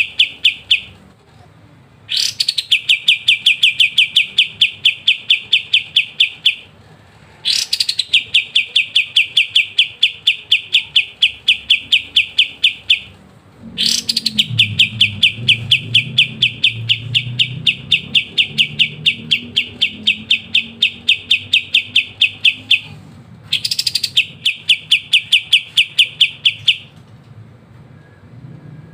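Kapas tembak songbird singing its rapid 'ngebren' trill: long runs of fast, evenly repeated high notes, about ten a second, each run opening with a quick upward sweep. There are four runs of several seconds each, with short pauses between them.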